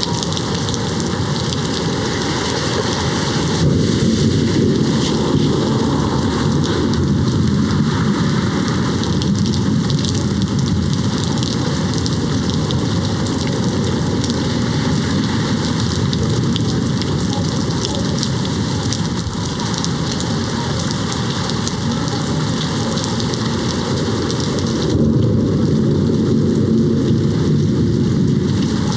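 Steady rain hitting a window, with low thunder rumbling on for several seconds through the middle. The rain gets louder about four seconds in and again near the end.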